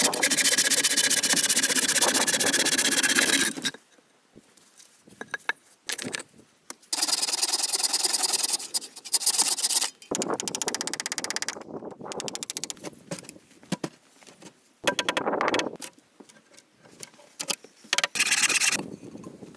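Short separate bursts of rapid scraping and rubbing on wood, several in a row with quiet gaps between.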